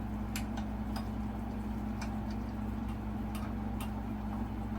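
Scattered light clicks and ticks from fan-blade mounting hardware being handled and fastened, irregular, about half a dozen, over a steady low hum.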